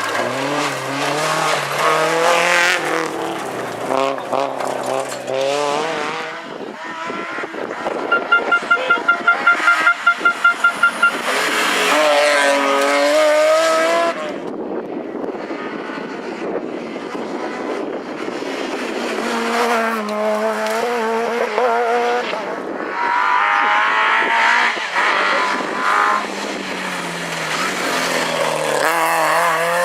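Rally car engines revving hard, their pitch climbing and dropping through gear changes, in several short clips cut together, with some tyre noise. A few seconds in comes a pulsing tone, about four pulses a second.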